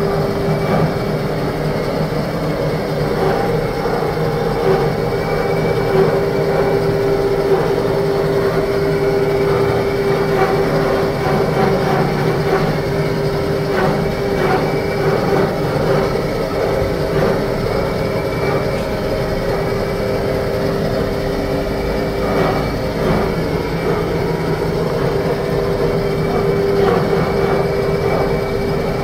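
Steady, loud mechanical running noise with a constant low hum, typical of a vehicle in motion.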